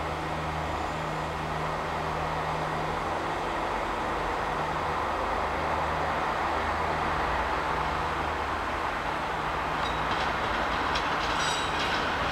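Train moving through a station: a steady low hum under broad rolling noise that grows a little louder toward the end, with a few brief high squeaks near the end.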